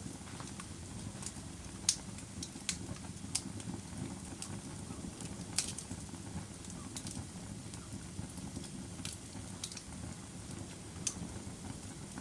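Wood fire burning in a fireplace: a steady low rumble with irregular sharp crackles and pops, the sharpest about two and five and a half seconds in.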